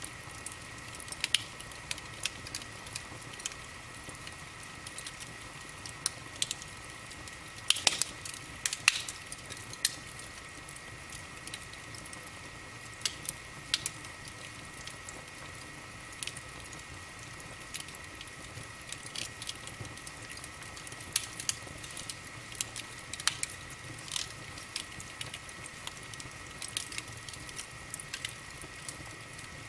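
Wood fire in a fireplace crackling, with irregular sharp pops and snaps over a steady hiss, a cluster of the loudest pops about eight seconds in. A faint steady high whine runs underneath.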